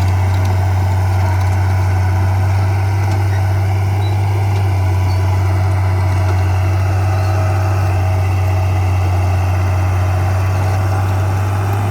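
Heavy construction machine's diesel engine running steadily, a loud low hum holding one pitch throughout.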